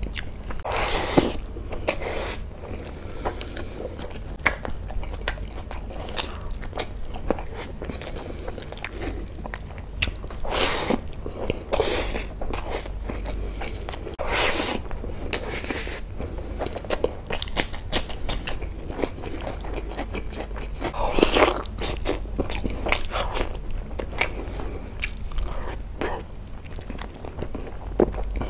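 Close-miked eating sounds: wet chewing and lip smacking on handfuls of rice and chicken, with several louder smacks scattered through.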